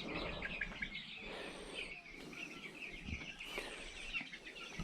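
Many birds chirping at once, a dense, fairly faint high twittering with no single call standing out.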